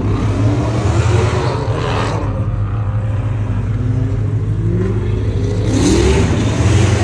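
Car engines running and accelerating, the revs climbing in pitch from about four seconds in, with a surge of rushing noise near the end.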